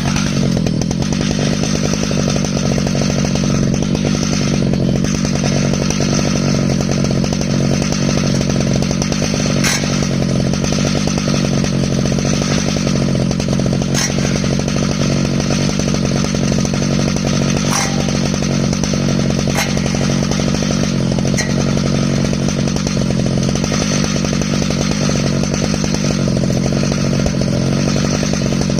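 Stihl MS 881 two-stroke chainsaw running steadily at high revs under load, its chain ripping lengthwise through an ash log in an Alaskan chainsaw mill.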